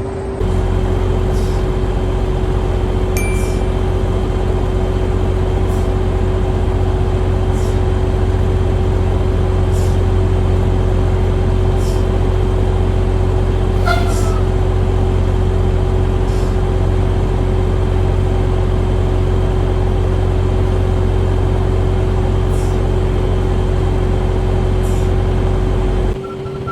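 Steady idle of a semi-truck's diesel engine: a constant low rumble with a steady hum over it and a faint tick about every two seconds. It starts and stops abruptly.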